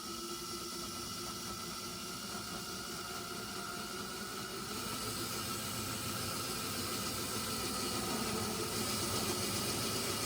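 Ryobi cordless drill running slowly as it bores a hole through a kayak's plastic outfitting: a steady motor whine over grinding noise that grows gradually louder.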